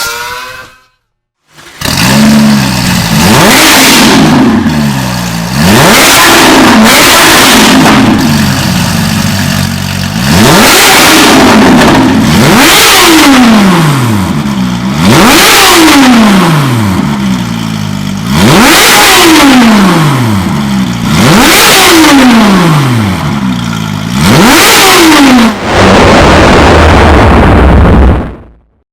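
High-performance sports car engine revved repeatedly through a loud aftermarket-style exhaust: sharp blips that climb quickly and fall away, one after another. Near the end it is held at a steady loud rumble for a couple of seconds before cutting off.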